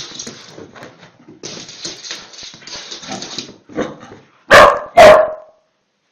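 A dog barks twice, loudly, about half a second apart near the end, after a few seconds of rustling noise.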